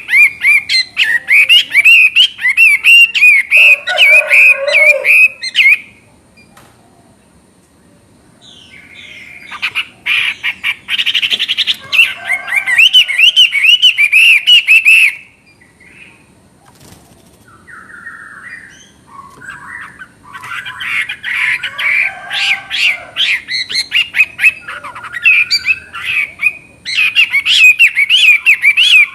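Chinese hwamei singing a loud, fast, warbling song in three long bouts with short pauses between them.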